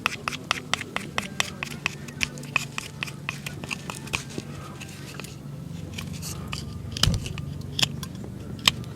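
Dry roasted dandelion root pieces crunching and clicking against a hard vessel under quick, regular strokes, about four a second. The strokes stop about five seconds in, leaving a few single louder clicks.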